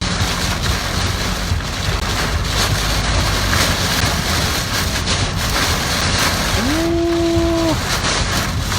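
Heavy typhoon rain and wind hitting a moving car, mixed with tyre noise on the wet road: a loud, steady wash of noise. A brief pitched tone sounds for about a second near the end.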